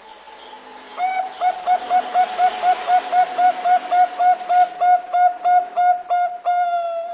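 Zebra dove (Bangkok-type perkutut) calling: a rapid run of short, evenly spaced cooing notes, about four a second, closing with one longer drawn-out note near the end. A steady hiss sits behind it.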